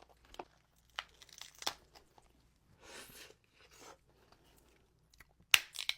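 Close-up eating of a seafood boil: shellfish shells cracking and being torn apart, with chewing. A few sharp cracks, the loudest near the end.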